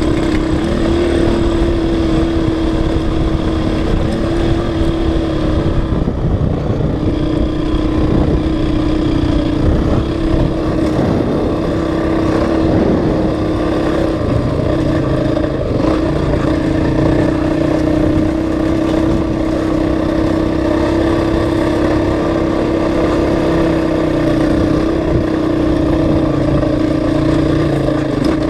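Honda CRF450X dirt bike's single-cylinder four-stroke engine running steadily while riding, its note holding a nearly constant pitch with a brief dip about six seconds in.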